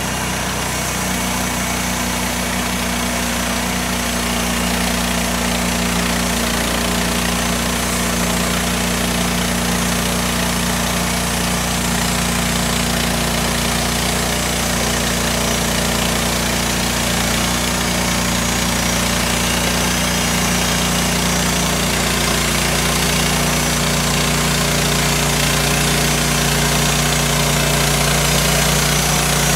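Woodland Mills sawmill's engine running steadily, with a hiss across the high range; it gets slightly louder as it goes.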